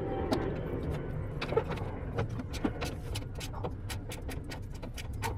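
Steady low vehicle rumble with many small clicks and taps scattered through it.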